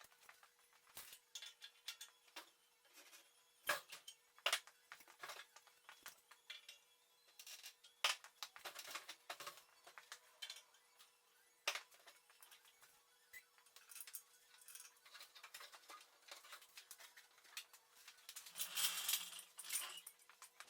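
Scattered light clicks and knocks, as of metal parts and tools being handled, over a faint steady hum, with a short burst of scraping clatter near the end.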